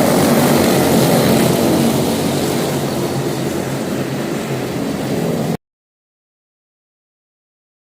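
Quarter midget race cars with single-cylinder Briggs & Stratton Animal engines running together on the track, a steady, droning engine note. About five and a half seconds in, the sound cuts off abruptly to dead silence, an audio dropout.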